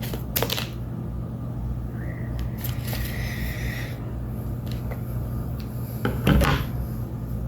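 Scissors snipping and craft materials being handled on a table: a few short sharp snips and scrapes, the loudest about six seconds in, over a steady low hum.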